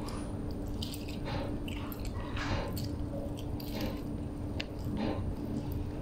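A person biting and chewing a mouthful of flatbread wrap close to the microphone, with repeated soft wet mouth sounds, over a faint steady hum.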